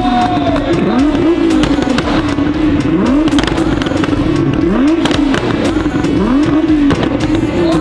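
Sports car engine revved in repeated blips, the pitch rising each time and then holding, with exhaust pops and crackles throughout, the overrun 'pops and bangs' of a tuned exhaust.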